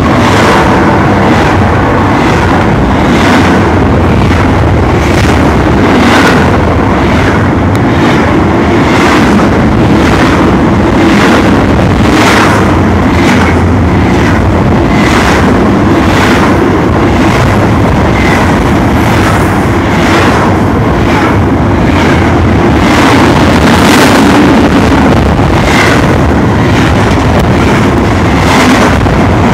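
A Union Pacific double-stack container train rolling past at close range: a loud, steady rumble of wheels on rail, with a sharp clack about once a second as wheels cross rail joints.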